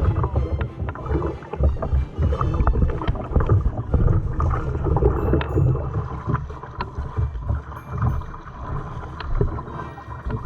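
Kayak paddling: the paddle dipping and splashing through the water stroke after stroke, with wind rumbling on the microphone.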